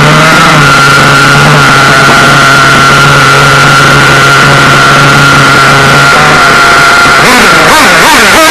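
RC buggy's small nitro engine idling with a steady high buzz. About seven seconds in, its pitch starts to waver and sag as the engine loads up on a rich tune, on the verge of stalling.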